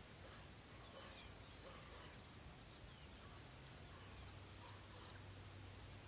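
Faint birdsong: short chirps and quick downward-sliding whistled notes, one or two a second, over a low steady rumble.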